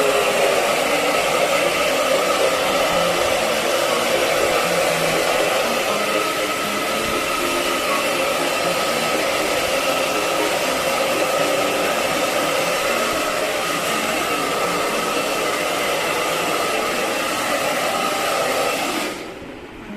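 Electric hair dryer blowing steadily, a rush of air with a faint whine in it, switched off about a second before the end.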